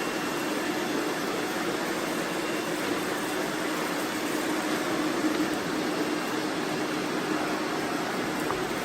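Robot vacuum cleaners running: a steady whirring rush of suction fans and brushes with a low hum underneath, as they sweep up confetti.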